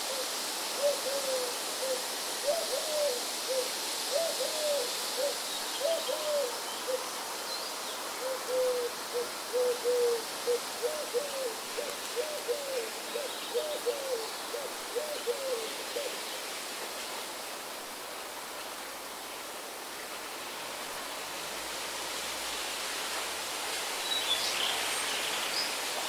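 A bird calling in a quick series of short, low notes, mostly in pairs and threes, for the first sixteen seconds or so, over a steady background hiss. A few faint high chirps come near the end.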